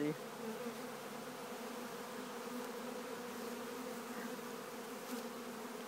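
A swarm of honeybees buzzing: a steady, even hum of many bees.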